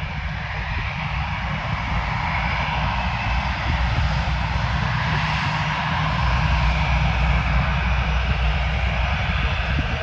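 Frontier Airlines Airbus A320neo-family jet airliner departing, its engines at takeoff power in a steady rumble and roar that slowly grows louder.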